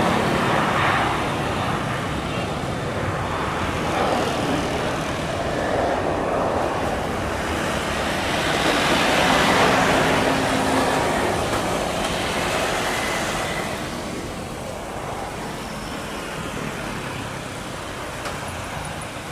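Boeing 737-800 jetliner's CFM56 turbofan engines at takeoff thrust: a broad rushing jet noise that swells to its loudest about halfway through, then fades as the aircraft climbs away.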